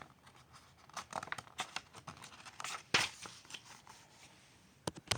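Paper pages of a picture book rustling and crinkling as they are handled and turned, with a sharper flap of paper about three seconds in and a couple of light clicks near the end.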